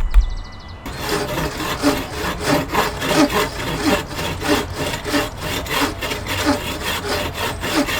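Hand saw cutting through wood in steady back-and-forth strokes, about two a second, starting about a second in after a low rumble cuts off.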